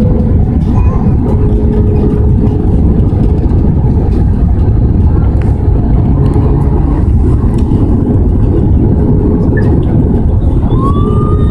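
Loud, steady low rumble of an Airbus A320 cabin, engine and airflow noise, with a faint steady hum. Near the end a higher wavering tone rises in over it.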